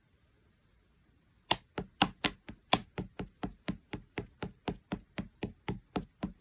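Chewy slime being poked in a steady rhythm, giving a series of sharp popping clicks about four a second, starting about a second and a half in.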